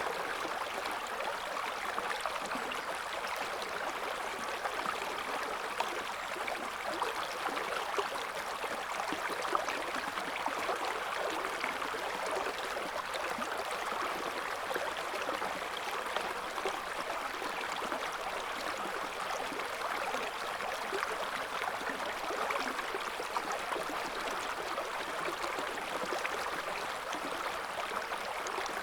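Shallow river current flowing and gurgling, a steady rush of water with small splashes flickering through it.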